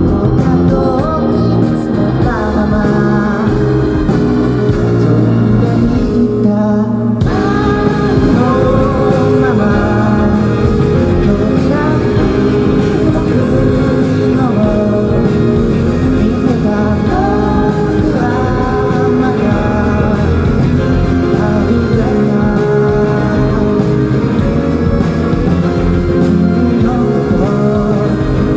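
A rock band plays an instrumental passage of a song, with electric guitar over bass and drums. About six seconds in the full band thins out for roughly a second, then comes back in.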